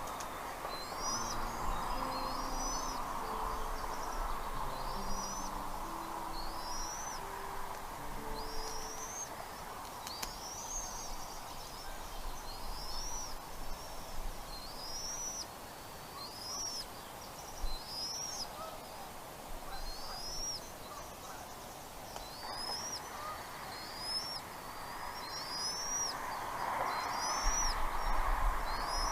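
A bird calling a single short, high note that rises and falls, repeated about once a second, over steady outdoor background noise.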